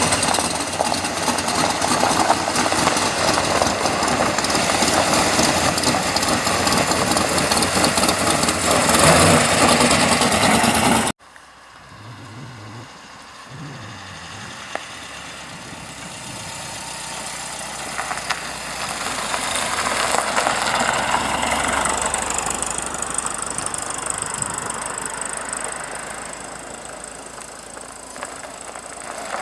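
Car engines running close by as cars drive in. The noise cuts off suddenly about eleven seconds in, then engine sound swells and fades again as another car goes past.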